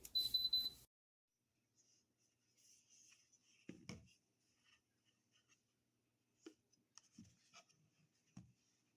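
A short electronic beep from a small portable electric kettle's push-button control panel as it is operated, with a faint click, cut off abruptly under a second in. Then near silence with a few faint clicks and rubs of handling.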